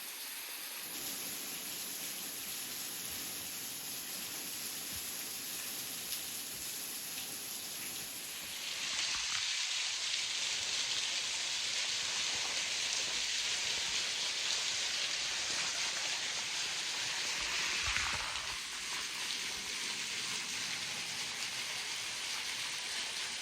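Water dripping and pattering down like rain, a steady hiss of falling water that gets louder about nine seconds in.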